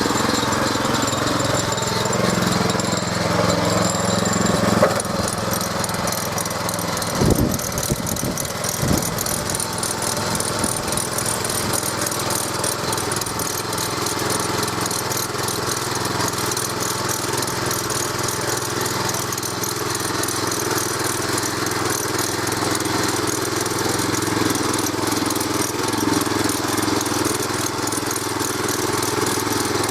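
Walk-behind tractor's Champion 200 cc single-cylinder four-stroke petrol engine running steadily under load as its cultivator discs till unbroken turf. A few low thumps come about seven to nine seconds in.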